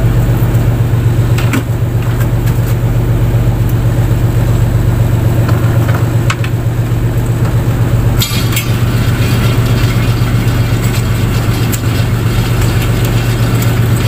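Fishing boat's engine running steadily with a low, even, pulsing hum. About eight seconds in, a rapid high ticking joins it.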